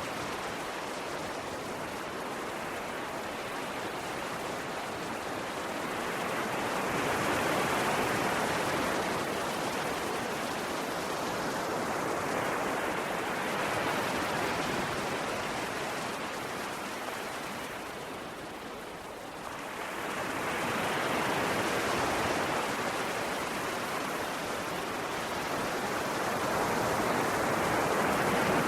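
Ocean waves washing in: a steady rushing noise that slowly swells and ebbs, cresting about every six to eight seconds, with its quietest lull a little past halfway.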